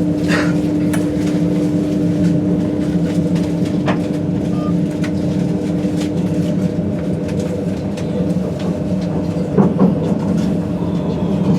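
A train running at the station: a steady low mechanical drone with a held tone that drops out about halfway, and a few scattered clicks.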